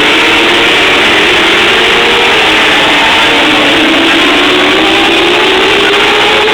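Several TQ midget race car engines running together at racing speed, their pitches rising and falling as the cars circulate the track; loud and steady overall.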